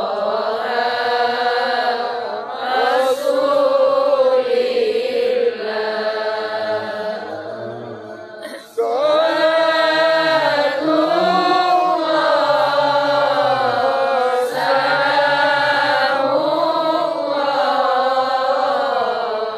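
A male qari reciting the Quran in melodic tilawah style, drawing out long wavering notes. The phrase fades and breaks off a little under halfway through, and a new phrase begins at once.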